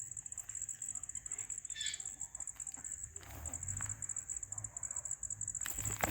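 Alexandrine parrots making soft sounds against a steady, high, rapidly pulsing trill; a sharp click near the end.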